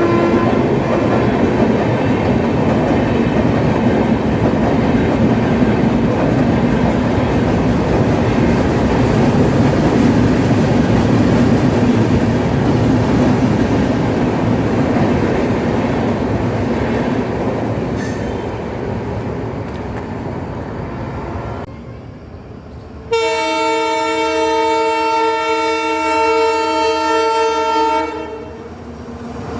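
Passenger train rolling out, wheels clattering over the rail joints, the sound slowly fading. Then a single long locomotive air-horn blast lasting about five seconds, near the end.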